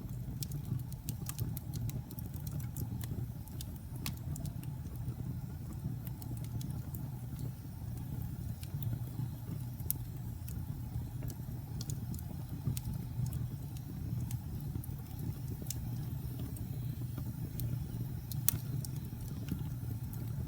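A fire in a fireplace crackling: a steady low rumble of flames with scattered sharp pops and snaps, a few of them louder, near the middle and near the end.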